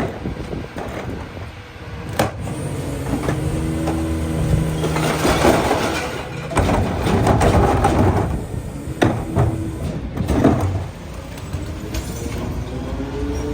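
Garbage truck's engine running while the McNeilus rear loader's hydraulic packer cycles. In the middle there are a few seconds of crunching and rattling as recycling is compacted, and several sharp clanks come at about two, nine and ten seconds in.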